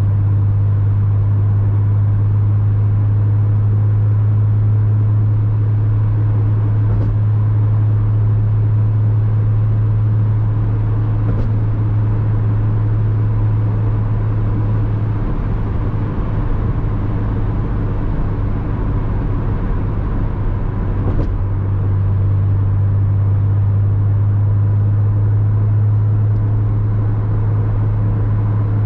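Porsche Boxster 986's flat-six engine running at steady cruising revs, a constant drone. About halfway through the note eases off and gets rougher for several seconds, then comes back to the same steady drone about two-thirds of the way in.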